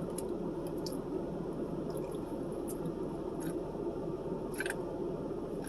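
Close-miked chewing of a mayonnaise-heavy sandwich: a scattering of short, wet mouth smacks and clicks over a steady low hum.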